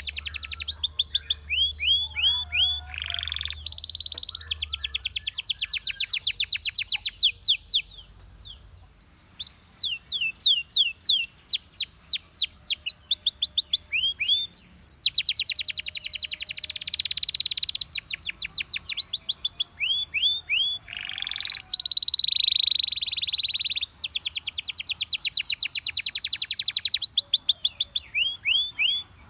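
Belgian canary singing: fast trilled rolls of rapidly repeated notes alternating with slower sweeping whistles, in phrases broken by short pauses.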